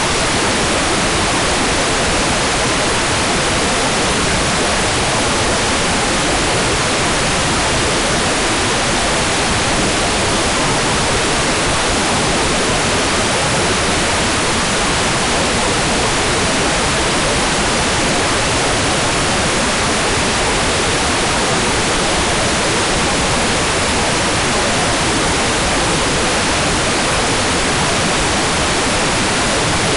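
Hair dryer blowing steadily: an even, unchanging rush of air noise with no breaks.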